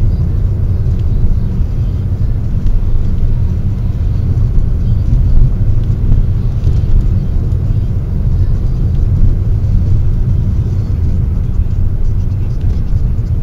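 Steady low rumble of a car being driven, engine and tyre noise heard from inside the cabin through a dashcam's built-in microphone.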